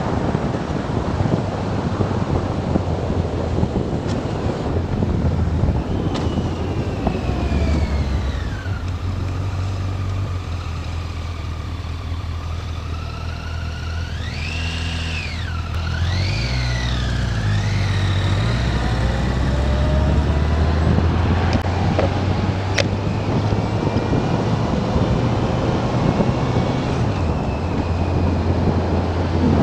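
Motorcycle engine heard from the bike while riding, over a steady low rumble and wind rush on the microphone. Its pitch rises and falls with the throttle, most sharply twice in quick succession about halfway through.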